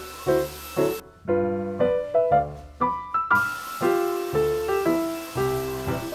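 Background piano music: a gentle melody of struck notes and chords, briefly sounding muffled in the middle.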